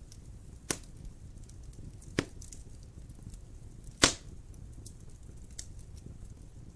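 Wood fire in a fireplace crackling over a low steady rumble, with three sharp pops about a second and a half apart, the last and loudest about four seconds in, and fainter ticks between.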